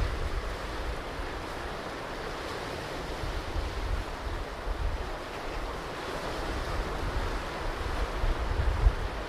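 Ocean surf washing continuously on a beach, with low rumbling gusts of wind on the microphone, strongest right at the start and near the end.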